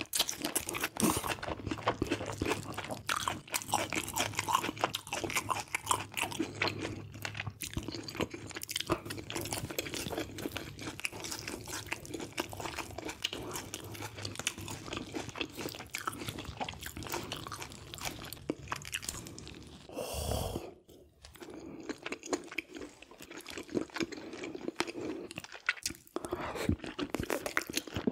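Close-miked chewing and eating of braised red sea bream, with a dense run of small wet clicks and smacks as the fish is bitten and chewed.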